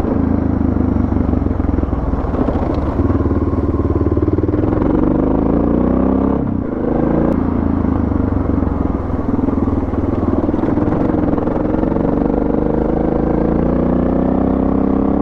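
Suzuki DR650's single-cylinder four-stroke engine running under way on a dirt road. About five seconds in, the engine note falls as the rider eases off, dips briefly, then picks up and climbs again.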